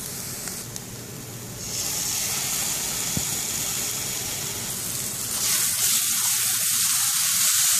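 Chopped onions, ginger and green chillies sizzling in hot coconut oil in a frying pan. The sizzle grows louder about five seconds in, once the wet ground chilli masala paste has gone in and is being stirred.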